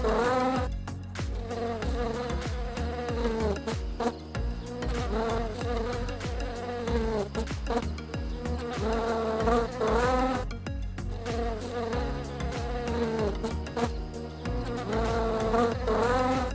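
Bees buzzing in flight: a continuous droning hum whose pitch rises and falls now and then.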